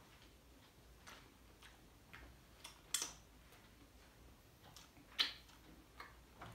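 Faint close-up mouth sounds of a person chewing a bite of soft stuffed kulcha with chole: scattered wet clicks and smacks at an uneven pace, two louder ones about three and five seconds in.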